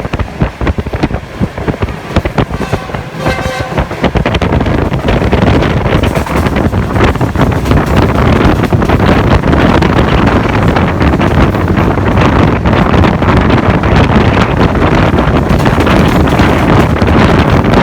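Moving passenger train heard from on board: wheels running on the rails with wind buffeting the microphone. It gets louder and steadier about four seconds in.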